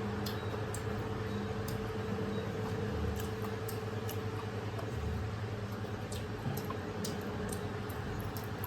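Faint chewing and small scattered mouth clicks of people eating fried chicken, over a steady low hum.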